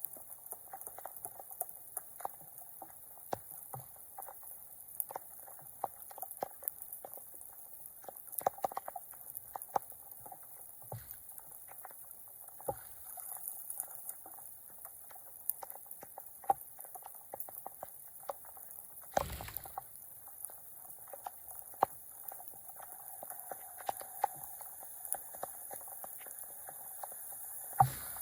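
Flood water gurgling and splashing, with scattered short splashes and knocks throughout and one louder thump about two-thirds of the way in.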